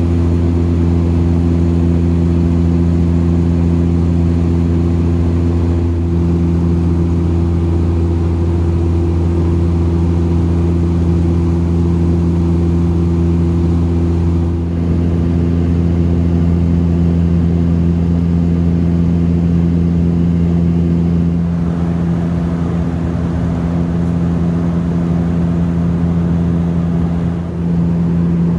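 Cabin drone of a Dash 8 turboprop airliner in flight. The propellers and engines make a loud, steady hum built on several deep tones, and the deepest of them drops a little about twenty seconds in.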